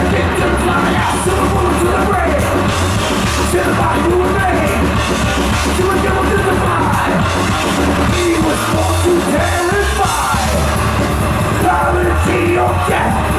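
Thrash metal band playing live at full volume: distorted guitars, bass and drums with shouted vocals over the top.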